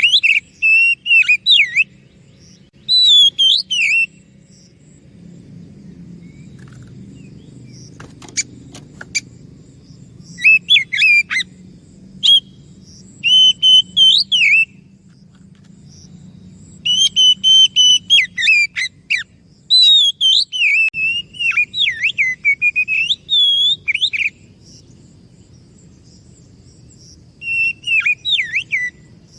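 Oriental magpie-robin (kacer) singing loud, varied whistled phrases in spells of a few seconds, with pauses of several seconds between them, over a faint low hum.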